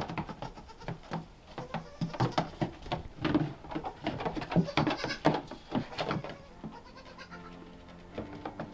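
Kiko goats bleating, mixed with many short knocks and rustles from the animals moving close by.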